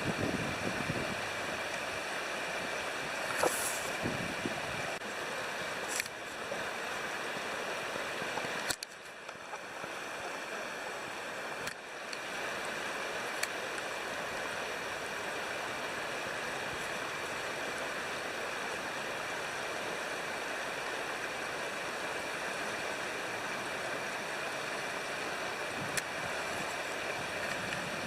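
River water flowing in a steady rush, briefly quieter for a few seconds about nine seconds in, with a few sharp crackles from a wood campfire.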